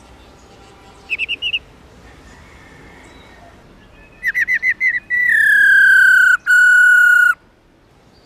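Female black-throated laughingthrush calling: a quick run of four notes about a second in, a run of five quick notes a few seconds later, then a loud, clear whistle that slides slightly downward for about two seconds, broken once briefly.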